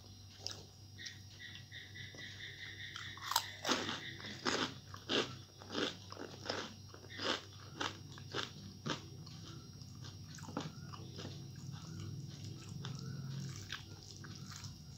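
A person chewing a mouthful of food, with sharp, crisp crunching bites that come thick from about three seconds in and thin out after about nine. A steady low hum sits underneath.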